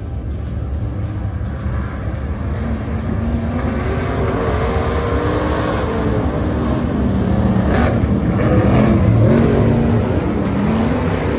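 IMCA stock car engines racing, revving up and down and growing louder as the cars come by, loudest about eight to ten seconds in.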